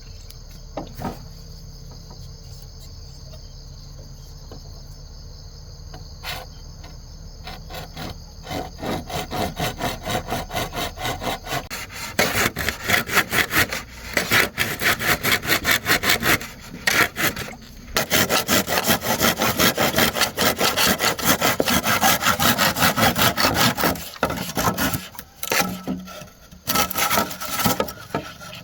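Bamboo being sawn by hand: rapid back-and-forth strokes start about eight seconds in, get louder, and go in runs with short pauses. Under them runs a steady chirring of insects.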